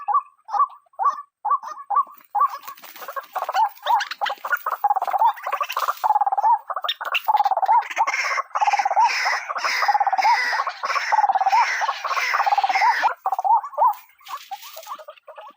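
Female white-breasted waterhen calling: a run of short repeated notes, about three a second. From about two and a half seconds in, this swells into a louder, dense chorus of overlapping croaking calls lasting about ten seconds, then drops back to the spaced repeated notes near the end.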